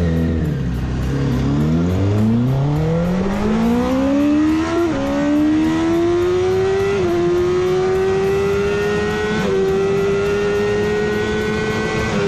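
A 1000 cc superbike engine accelerating flat out from low revs. The revs climb steeply, then drop briefly at three upshifts about five, seven and nine and a half seconds in, and each gear's climb is slower than the last.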